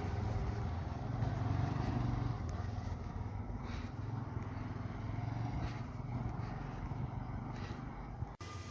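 Steady low drone of a motor vehicle running, with an even haze of road noise; it cuts off suddenly near the end.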